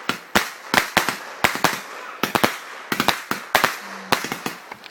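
Fireworks going off: an irregular run of sharp bangs, about three a second.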